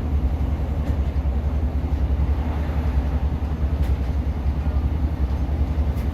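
Cabin sound inside a Class 150 diesel multiple unit: a steady low rumble from its underfloor diesel engine and running gear, with a few faint ticks.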